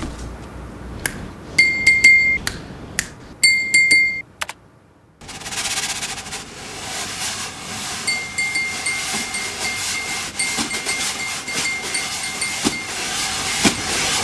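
A few sharp clicks and two short ringing clinks. About five seconds in, a steady hiss sets in, with a faint ringing tone running through the middle of it.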